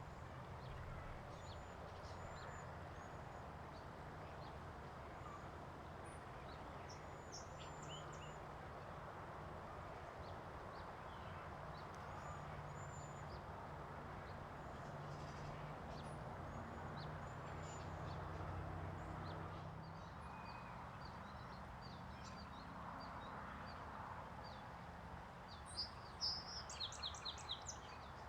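Small songbirds chirping sparsely over a steady low background rumble, then a quick run of about six loud, sharp notes from one bird near the end.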